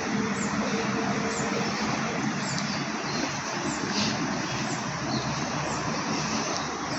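Steady drone of city road traffic, with faint high chirps repeating about once a second.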